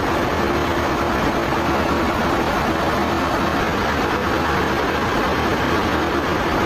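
Sawmill machinery running steadily: a constant loud mechanical drone with an unchanging hum.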